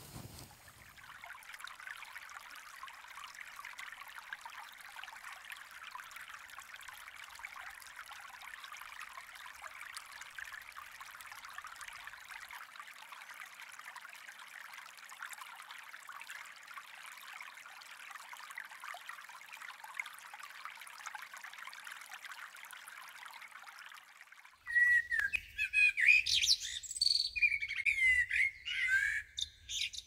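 A faint, even hiss with no distinct tones, then, near the end, a songbird chirping loudly in quick, varied phrases.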